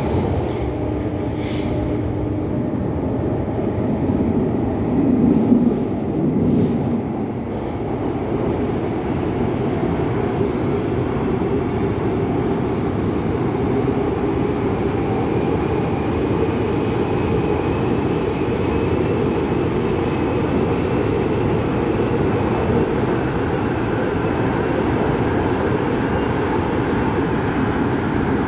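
MTR Tung Chung Line CAF-built train running, a steady rumble of wheels on rail with a few heavier bumps about five to seven seconds in. A faint whine rises slowly through the second half.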